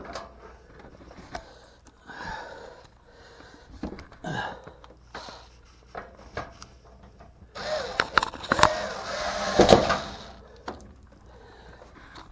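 Scattered clicks, knocks and scraping from a dryer's sheet-metal panel and screws being handled during reassembly. A louder, noisier stretch lasting about three seconds starts near the two-thirds mark, with two sharp clicks in it.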